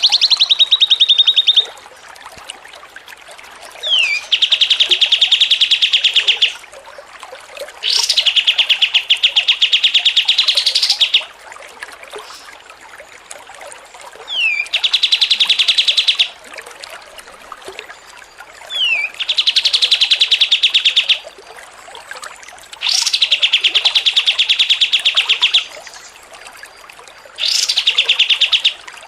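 A songbird singing rapid, buzzy trills of about two to three seconds each, repeated every four to five seconds, most opening with a short downward-sliding note.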